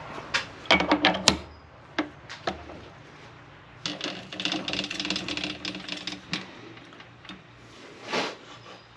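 Metal tooling clinking and clattering as a boring bar is set up on a metal lathe: a cluster of sharp knocks and clinks, then a couple of seconds of rapid metallic rattling with a steady hum under it.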